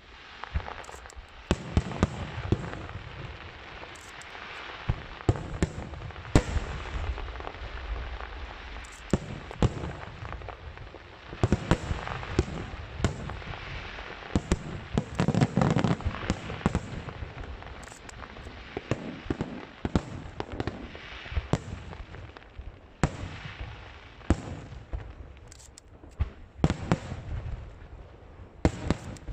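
Aerial fireworks bursting overhead: a steady run of booming shell bursts at uneven intervals over continuous crackling, thickest about halfway through.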